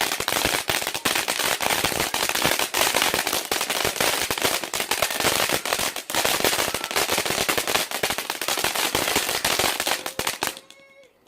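'Spider Strike' consumer firework going off: a dense stream of rapid crackling and sharp pops that stops abruptly about ten and a half seconds in.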